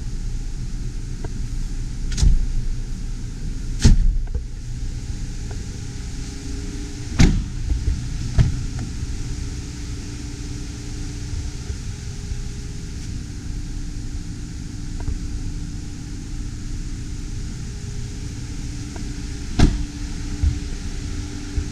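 Jeep Gladiator Rubicon's 3.6-litre V6 engine idling steadily, with several short sharp knocks or clicks over it.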